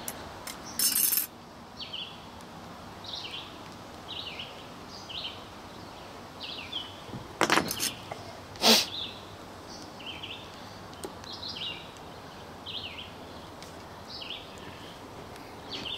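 A bird singing, repeating the same short chirped phrase every second or so, over a faint outdoor background. A short rustle about a second in and a few sharp clicks around eight seconds in come from hands handling a bow square and the string of a longbow.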